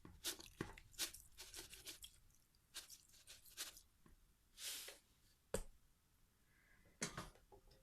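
Salt being added to a pot of beets for boiling: faint rustling and crunching with scattered clicks, a short burst of rustle partway through, and a sharp knock about five and a half seconds in.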